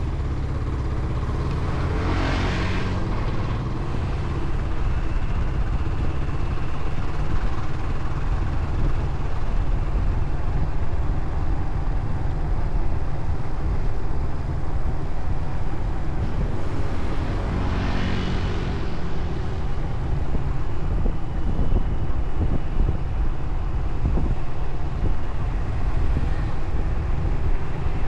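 Motorcycle engine running steadily while riding, a constant low rumble with road and wind noise over it. Two brief louder rushing swells come about 2 seconds in and again about 18 seconds in.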